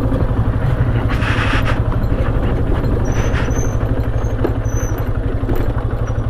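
Motorcycle engine running steadily while riding, with a few short high squeaks a little past the middle.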